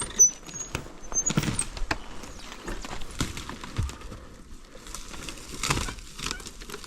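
Scattered scuffs, knocks and rustling of people moving about on rocky ground, with a few short high squeaks in the first second or so; no engine running.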